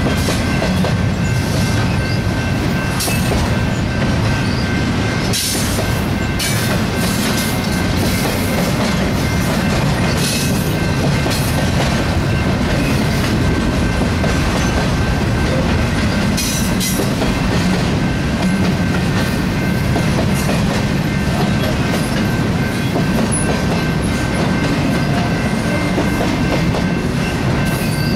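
BNSF double-stack intermodal freight train rolling past: a steady rumble of steel wheels on rail, with a thin steady high whine and irregular sharp clicks as the cars go by.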